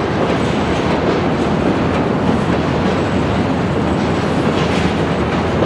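Freight cars rolling past on the rails, a steady clatter and rumble of wheels on track.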